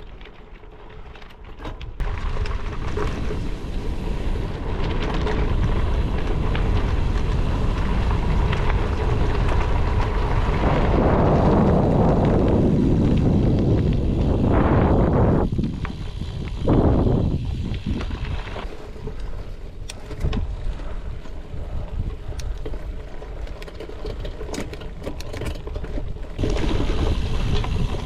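Gravel bike riding recorded on an action camera: wind noise on the microphone and rolling noise from the bike. The noise steps up about two seconds in and swells loudest in surges around the middle.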